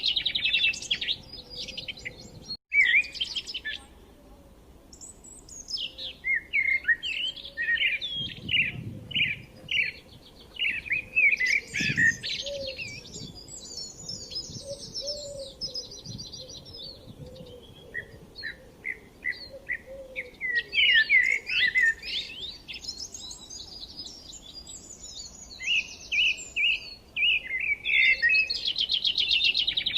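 Several songbirds chirping and singing, with quick rapid-fire trills at the start and again near the end, and scattered short chirps in between.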